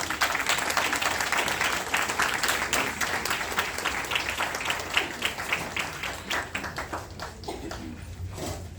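Audience applauding in a concert hall at the end of a band piece, the claps thinning out toward the end.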